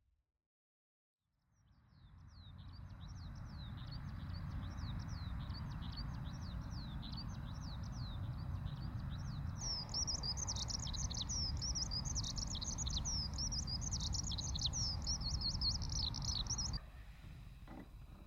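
Eurasian skylark singing, a long, unbroken stream of rapid high chirps and trills that grows louder about halfway through, over a low rumble of breeze. It fades in after a moment of silence and cuts off abruptly near the end.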